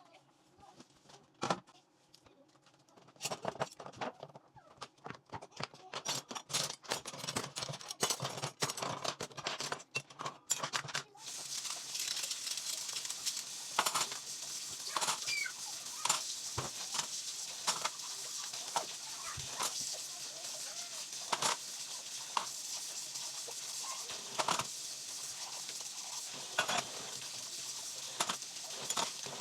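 Dishes and cutlery clinking as they are washed by hand. About eleven seconds in, a tap starts running steadily under continued clatter.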